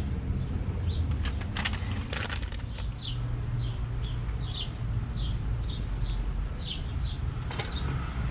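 A small bird chirping in short falling notes, about twice a second, over a steady low rumble. A few sharp scrapes come about one and a half to two seconds in.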